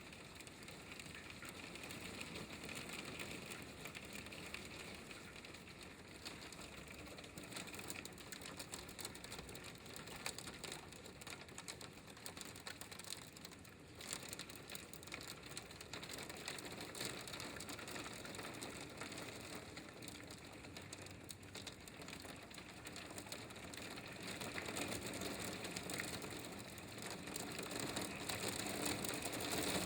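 Hailstorm: a dense, steady clatter of hailstones pelting down and hitting surfaces, growing louder over the last few seconds.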